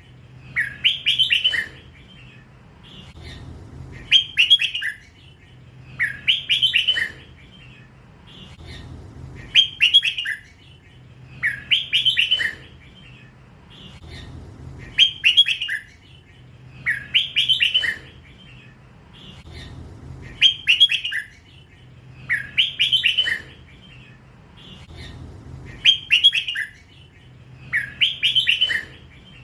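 Young hybrid red-whiskered bulbul singing its 'lak wai' song. It gives a short warbled phrase of about a second, repeated roughly every two and a half to three seconds.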